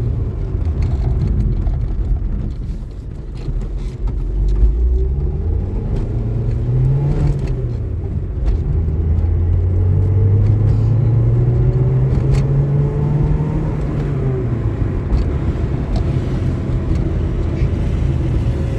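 Car engine running while driving, its pitch rising and falling as it speeds up and slows, with one long climb in the middle.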